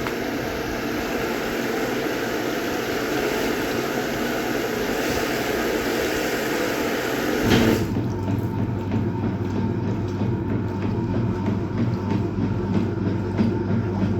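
A Hoover Automatic 820 top-loading washing machine fills with cold water in a steady hiss. About halfway through, the fill stops and the motor starts the agitation: a low hum with a regular, rhythmic churning of the wash water.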